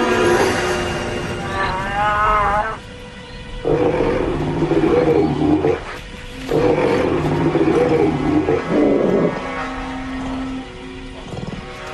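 Grizzly bears roaring at each other in a standoff: two long roars about four and six and a half seconds in, each lasting about two seconds, with a shorter, higher call a little before them. This is a threat display between females, one refusing to back down. Background music plays under it.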